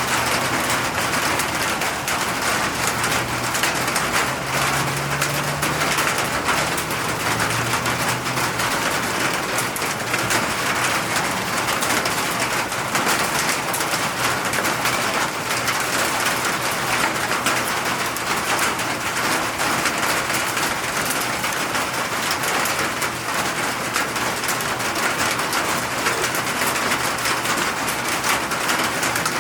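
Steady, heavy rain falling, an even hiss with no let-up. In the first several seconds a faint low tone comes and goes under it.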